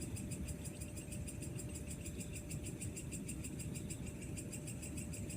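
Night insects chirping in a fast, even pulse of high notes, about five a second, over a steady low rumble.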